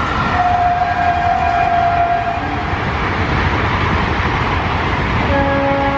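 Passenger train hauled by an electric locomotive running past at speed with a steady rumble. A single held horn note sounds from about half a second in for about two seconds, and another steady note begins near the end.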